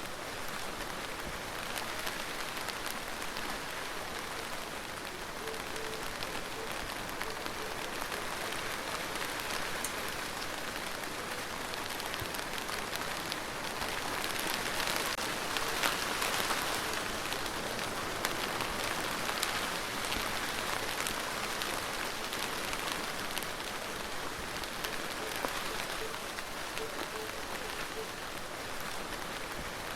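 Steady rain falling on a surface, a dense hiss with scattered individual drop ticks, swelling somewhat heavier about halfway through before easing back.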